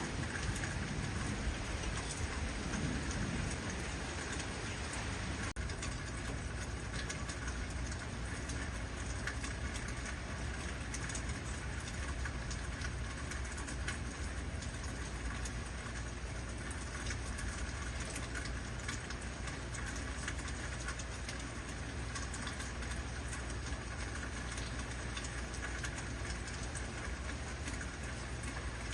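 Heavy rain falling steadily. In the first few seconds a low rumble of thunder dies away.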